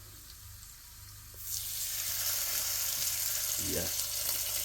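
Bacon sizzling in a frying pan, a steady hiss that starts suddenly about a second and a half in.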